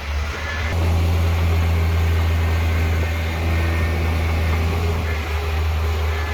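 Heavy earthmoving machine's diesel engine running under load, a deep steady drone that grows louder about a second in and eases slightly near the end.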